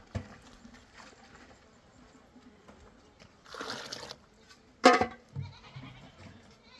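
A goat bleats once, short and loud, about five seconds in, after a brief rush of hissing noise.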